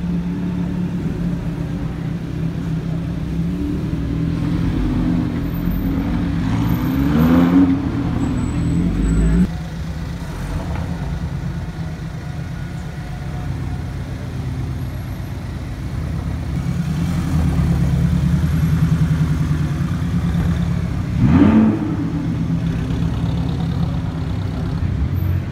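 Lamborghini Huracán V10 running at low speed with one short rev blip about seven seconds in. After a sudden cut about nine seconds in, a Porsche 718's engine runs in slow traffic and gives another short rev near the end.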